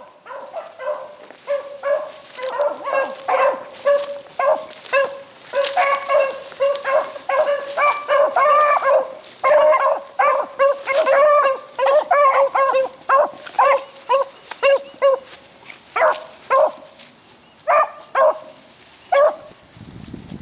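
A pack of beagle hounds baying in quick, overlapping barks as they run a rabbit's scent. The barking thickens about two seconds in, then thins to scattered barks near the end.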